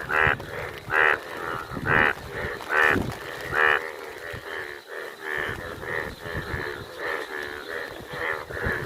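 A chorus of Indian bullfrogs giving their breeding calls. Loud calls come about once a second for the first four seconds, then many fainter overlapping calls follow.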